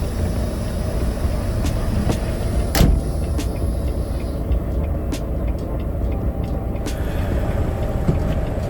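Tractor-trailer truck engine idling with a steady low rumble, with a few sharp clicks and knocks over it, the loudest about three seconds in.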